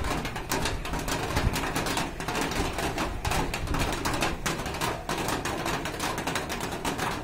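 Rain falling: a dense, irregular patter of drops striking close by over a steady hiss.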